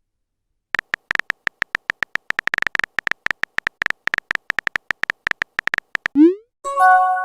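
Phone-keyboard typing sound effect: rapid, irregular clicks for about five seconds. Near the end comes a short rising pop, then a chime-like message notification tone.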